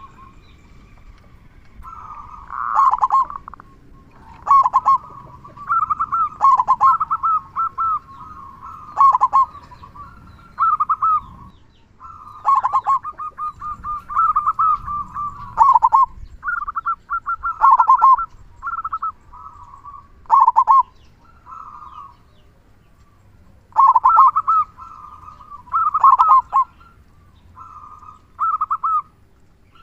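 Zebra dove (perkutut) singing its staccato cooing song over and over: phrases of rapid pulsing coos, about one every one to two seconds, each dropping in pitch at the end.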